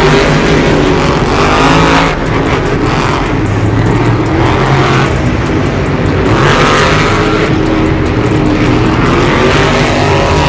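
Monster trucks' supercharged V8 engines running loud and revving, their pitch rising and falling, with a change in the engine note about two seconds in.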